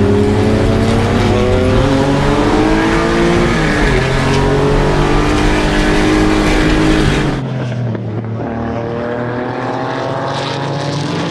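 Vintage race car engine under hard acceleration, its pitch climbing steadily, dropping at an upshift about three and a half seconds in, then climbing again. About seven seconds in the sound switches abruptly to a quieter, duller engine note that is also rising.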